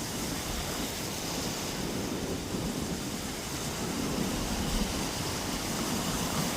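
Surf washing onto a beach in a steady rush, with wind rumbling on the microphone.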